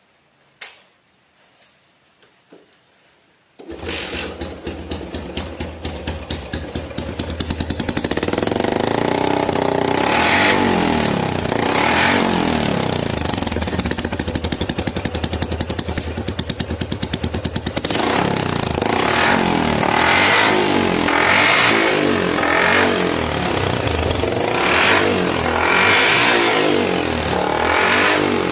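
Yamaha MX single-cylinder four-stroke motorcycle engine, heard through a drilled-out stock exhaust that makes it loud. After a few light clicks it starts about four seconds in and idles with a choppy beat. It is then revved up and held, and near the end it is blipped over and over.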